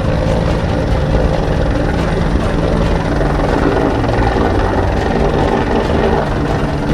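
A helicopter's engine and rotor running steadily.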